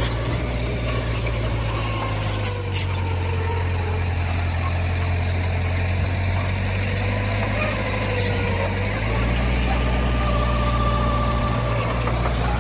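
Heavy diesel engine of earthmoving equipment running steadily, its low hum shifting and growing stronger about nine seconds in, with a few light clicks near the start.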